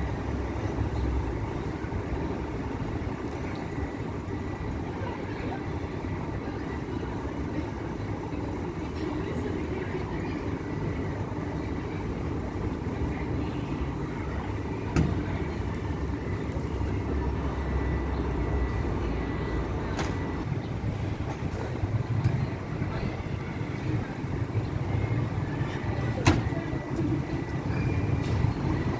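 Scania K440 coach under way, a steady engine and road rumble that swells and eases slowly, with a few sharp clicks.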